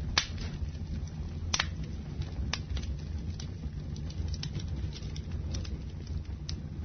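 Wood fire burning in a fireplace, crackling with sharp pops scattered throughout over a steady low rumble of the flames. The loudest pop comes right at the start, another about a second and a half in.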